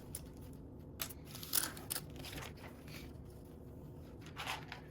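Small plastic Lego pieces handled on a table: a few short, separate clicks and rustles.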